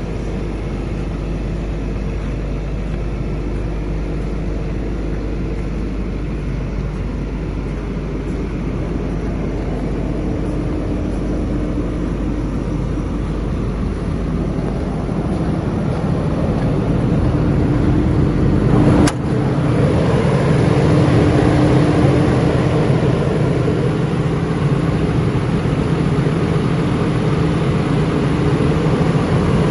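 Caterpillar 323D L excavator's diesel engine running steadily and building louder through the middle. A single sharp click comes about two-thirds of the way through, after which the low rumble changes.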